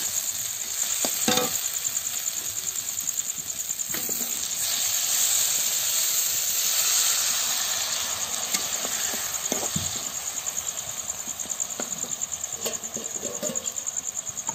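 Bitter gourd, onions and green chillies frying in oil in a wok, sizzling steadily. The sizzle swells louder midway as a little water is added. A spatula scrapes and taps against the pan a few times.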